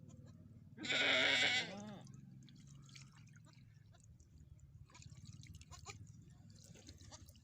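A bleating farm animal gives one loud, wavering bleat about a second in, lasting about a second, over a faint low steady hum.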